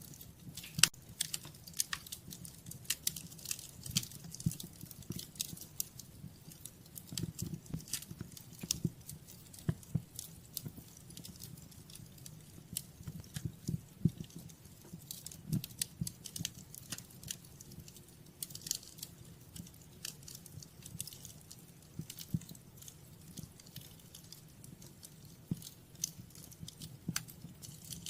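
Wood fire crackling in a fireplace: irregular snaps and pops over a low steady rumble of the flames.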